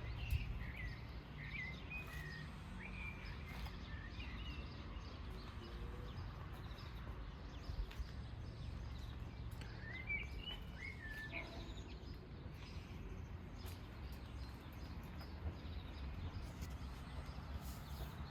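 Faint ambient background with birds chirping in short, bending calls, one cluster near the start and another about ten seconds in, over a steady low rumble.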